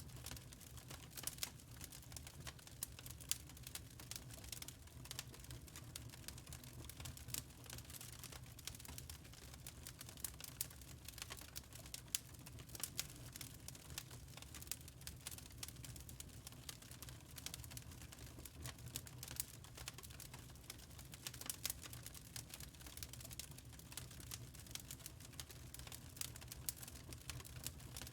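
Wood fire crackling in a fireplace: irregular sharp pops and snaps over a faint, steady low rumble of the burning logs.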